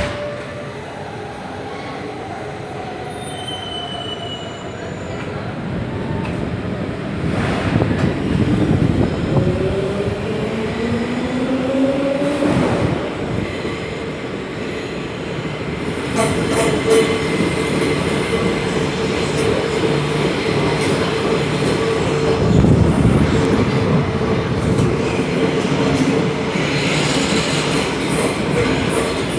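A class 472 electric S-Bahn train running, heard from inside the car, with its wheels squealing on the rails. About eight seconds in, a whine rises in pitch for several seconds. From about halfway through, a steady high tone runs on over the rumble.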